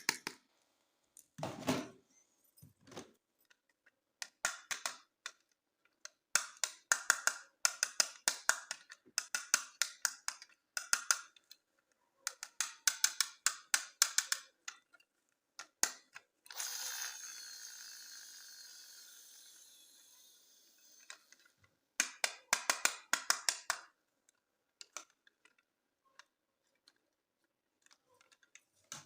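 Rapid trains of ratchet-like plastic clicks in several bursts, as from a plastic toy mechanism being worked. Midway, a hiss starts suddenly and fades out over about four seconds.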